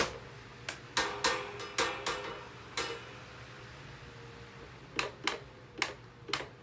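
Running electric table fan humming steadily, broken by about a dozen sharp, irregular clacks and knocks, the loudest right at the start.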